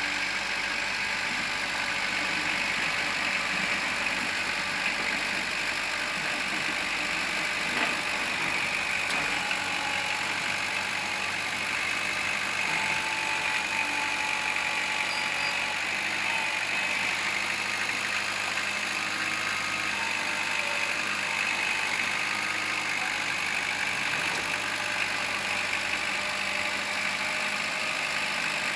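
Kubota L4600 tractor's diesel engine running steadily.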